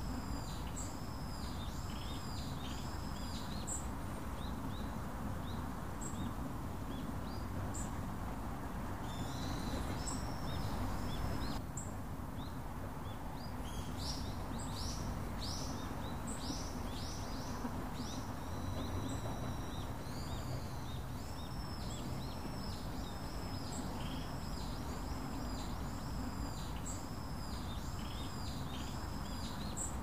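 Small birds chirping in a long series of repeated high, arching notes, briefly pausing near the middle, over a steady low hum of background noise.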